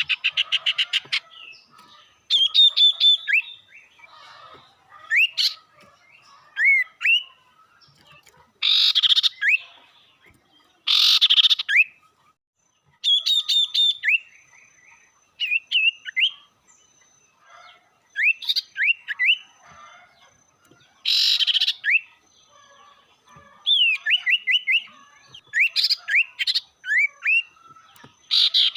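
A sirtu (sirpu) songbird calling aggressively: quick rising whistled chirps and short rapid runs of notes, broken several times by loud harsh scolding bursts.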